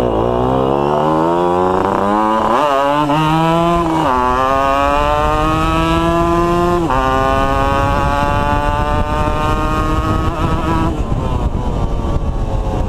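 Two-stroke motorcycle engine accelerating up through the gears: its pitch climbs, drops sharply at each upshift about 4 and 7 seconds in, then rises slowly again and eases off near the end, with a constant rush of wind.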